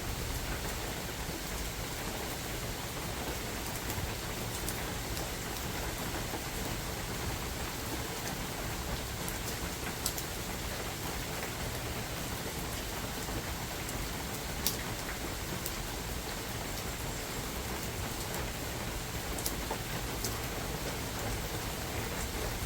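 Steady rain falling in a forest: an even hiss of rain with a few sharper single drop taps standing out.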